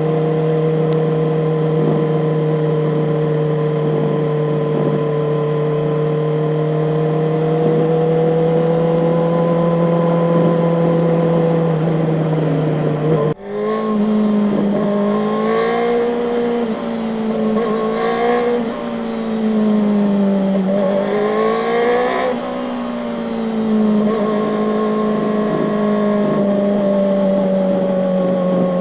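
Kawasaki ZX-4RR's 399 cc inline-four engine running under way at a steady pitch, then a sudden brief dip about halfway in, after which the revs rise and fall several times before settling steady again.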